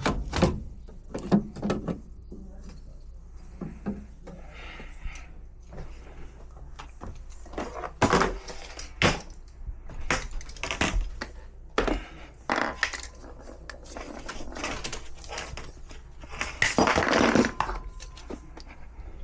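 PVC drain pipe and fittings being handled and fitted together: scattered clicks and knocks of hard plastic parts, with a rough scraping rasp lasting about a second near the end.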